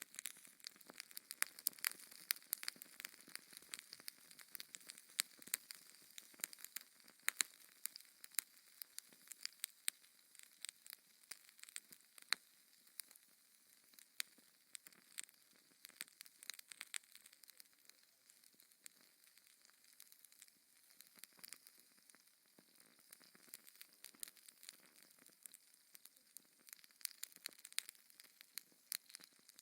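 Wood fire crackling: many sharp, irregular pops and snaps over a faint steady hiss of burning.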